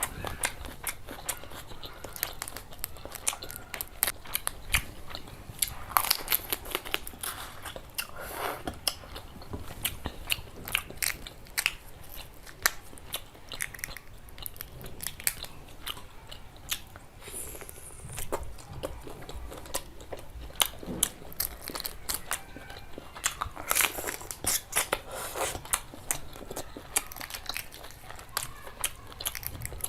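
Close-miked eating sounds: a person biting and chewing curry with rice, with many irregular wet clicks and crunches.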